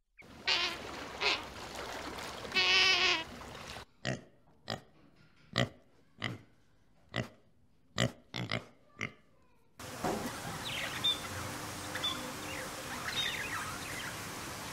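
A short pitched animal call in the first few seconds, then a warthog grunting close up, about ten short sharp grunts over five seconds. From about ten seconds in, budgerigars chirp and twitter rapidly.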